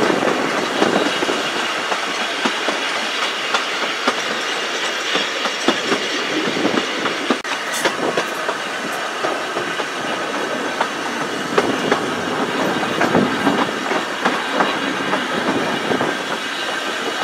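Narrow-gauge train running, heard from the carriage: a steady rumble and rattle with the wheels clicking irregularly over the rail joints.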